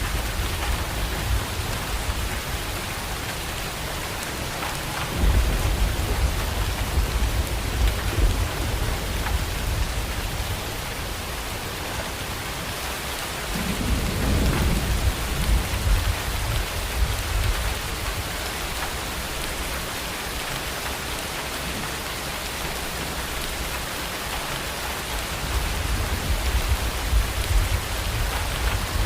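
Steady rain with thunder rumbling three times: about five seconds in, around the middle, and again near the end.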